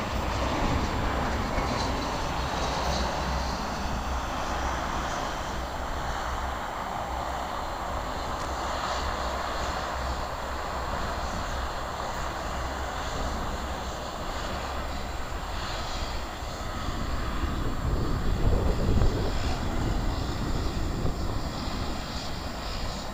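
Airliner engines running steadily, a broad rushing noise with a low rumble underneath that swells a little near the end.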